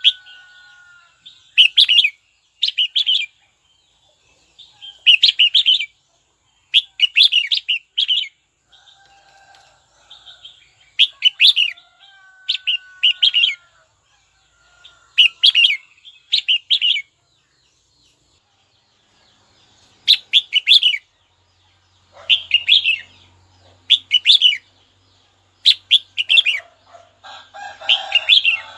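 Red-whiskered bulbul calling: short clusters of quick, sharp chirps repeated every second or two, with a few softer, lower whistled notes in the gaps. This is a lure call of the kind used to get other bulbuls to answer.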